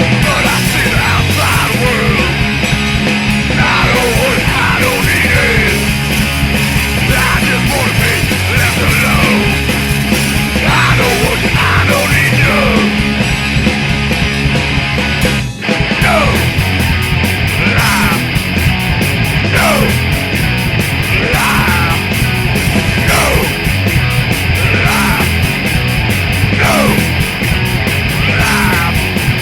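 Punk rock band recording playing loud and fast, with repeated short falling squeals over the dense music and a brief break about fifteen seconds in.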